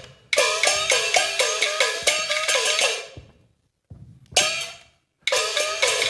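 Peking opera percussion ensemble of gongs and cymbals struck in quick ringing strokes, about three a second. It breaks off about three seconds in, gives a short burst a second later, and starts up again near the end.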